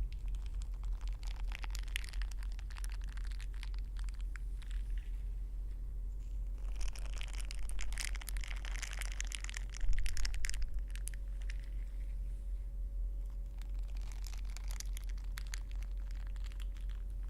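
Close-miked ear pick scratching and crackling in an ear, in three spells of dense crackling, the loudest about seven to ten seconds in, over a steady low hum.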